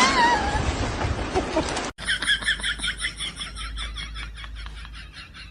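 An animal's short wavering call, then, after a cut, a fast run of high chirps, about six a second, growing fainter.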